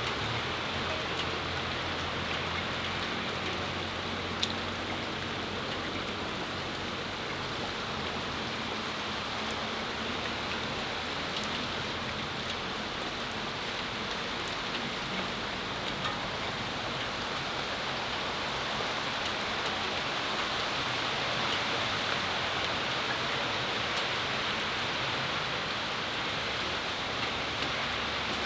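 Steady rain shower falling on a patio, an even hiss with a few sharp ticks now and then.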